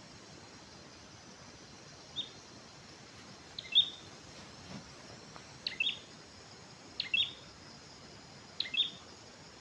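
A wild bird calling a short, sharp note over and over, about once every second and a half, starting about two seconds in, over a steady faint background hiss.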